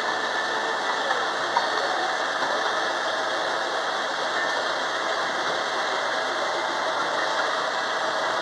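Theme-park ride train running along its track: a steady mechanical rattle and rolling noise with a few faint clicks.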